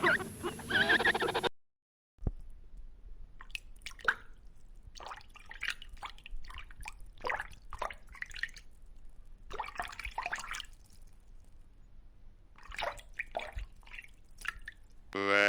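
An animal's bleat that cuts off about a second and a half in. After a short silence comes a long stretch of soft, irregular clicks and taps over a low hum. Near the end there is a loud, drawn-out animal call held at a steady pitch.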